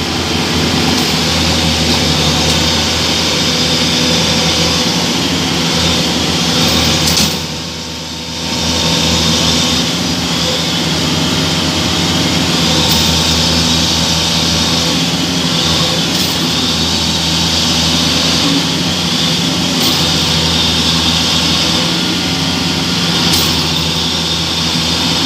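Combine harvester diesel engines running steadily under heavy load while towing a combine mired in mud, with a brief dip in loudness about a third of the way through.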